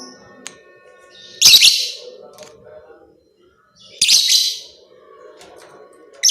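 Lovebird giving short, loud, shrill calls about every two and a half seconds, with fainter chattering in between.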